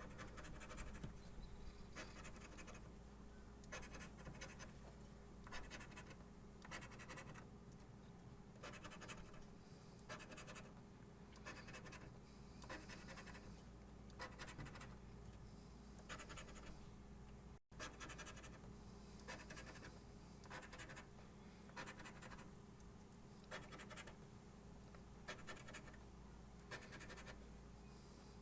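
A scratch-off lottery ticket being scratched: faint, short rasping strokes repeated about once a second as the coating is scraped off.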